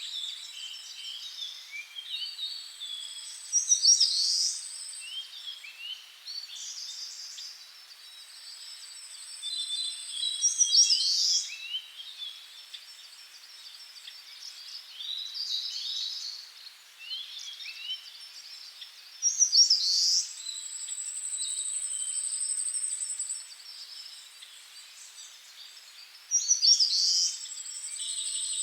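Several birds singing and chirping in woodland, one of them repeating a phrase about every seven or eight seconds that sweeps and then holds a long, thin, very high trill for a second or two.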